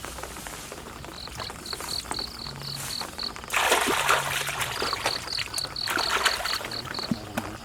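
An insect chirps in two runs of short, even, high-pitched pulses, about five a second. About halfway through, water splashes and sloshes loudly.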